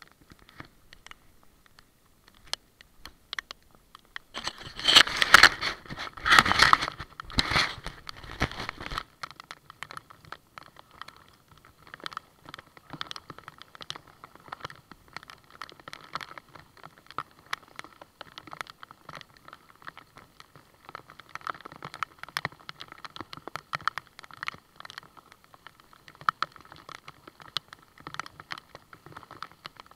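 Rain and water drops tapping on a kayak-mounted camera: a dense run of small clicks, with a louder spell of splashing water from about five to nine seconds in.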